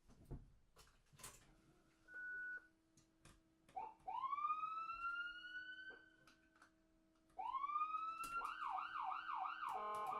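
Siren sound effect: a wail that climbs in pitch for about two seconds and cuts off, then climbs again and breaks into a fast up-and-down warble, about four swoops a second. A short beep comes before it, and an electric guitar comes in near the end.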